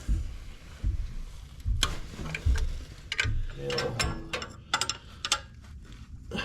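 Hand tools working on tractor metal: a socket ratchet clicking in short quick runs, with irregular knocks and clanks of tools and parts.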